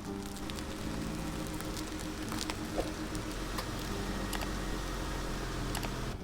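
Rain pattering steadily, with scattered sharper drop hits and a low steady hum underneath.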